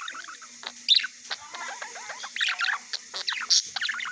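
Budgerigar chattering: a fast, continuous stream of warbling chirps and twitters, broken by a sharp, louder high call about a second in and another near the end.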